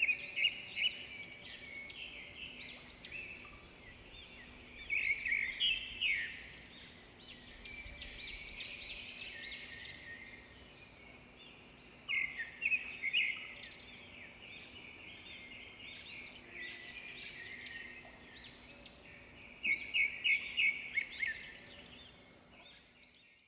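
Several small birds chirping and singing, their calls overlapping, with louder bursts of rapid chirps about every six to seven seconds between quieter stretches.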